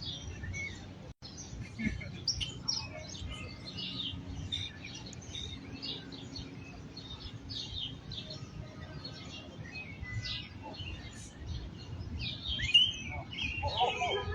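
Several small birds chirping and twittering in quick, overlapping short calls, over a low background rumble. A louder sound breaks in near the end.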